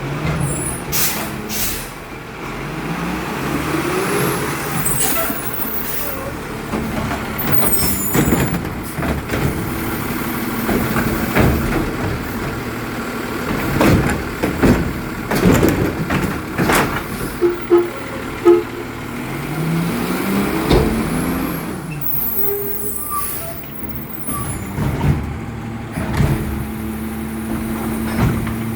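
Garbage truck at work: the diesel engine revs up twice, with sharp metal clanks and knocks in the middle and several short air brake hisses.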